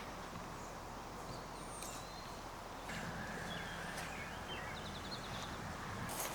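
Small birds chirping faintly over steady outdoor background noise, with a short rapid trill about five seconds in; a footstep sounds near the end.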